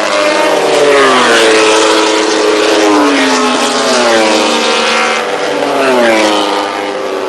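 MotoGP racing motorcycle engines at high revs, the pitch falling several times as the bikes shut off and slow, then climbing again.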